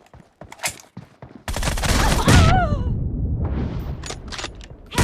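Video-game gunfire: a few scattered shots, then about a second and a half in a sudden loud blast with a low rumble lasting over a second. A short burst and more shots follow near the end.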